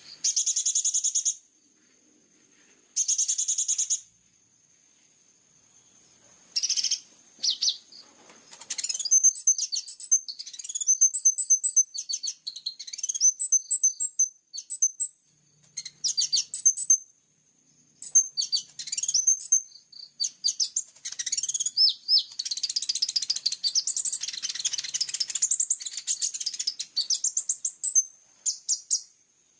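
Crimson sunbird singing high-pitched, very rapid rattling trills and sharp clipped notes in fast bursts, the bursts coming closer together until the song runs on almost without pause.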